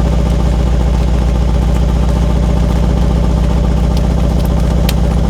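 Mercedes-AMG C63's V8 idling steadily with a deep, even exhaust rumble, still warming up after a cold start.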